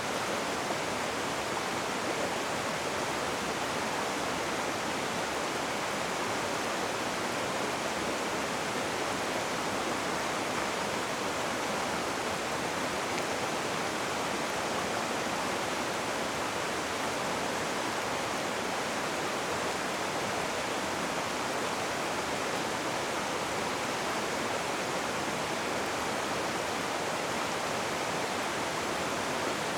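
Rushing water, a river or waterfall, making a steady, unchanging hiss.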